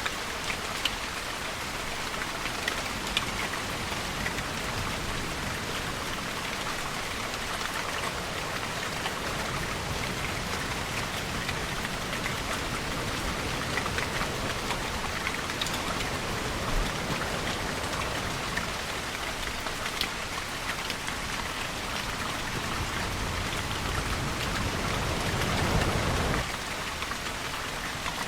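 Steady rainfall with many small drops pattering on a surface. A deeper swell builds about twenty-four seconds in and cuts off suddenly a couple of seconds later.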